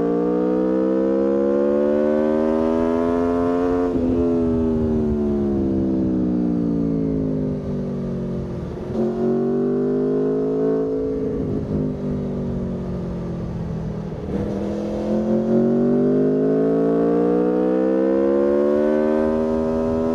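Aprilia Tuono V4's V4 engine under way. It climbs in pitch for about four seconds, sinks back as the bike slows, rises and falls again in the middle, then pulls up in a long rise near the end.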